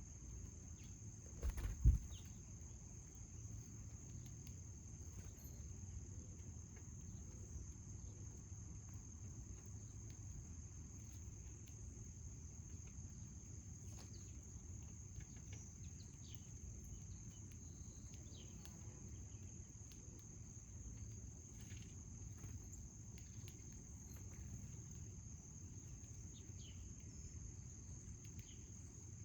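Crickets trilling steadily as one unbroken high-pitched tone over a low rumble, with a short thump about two seconds in.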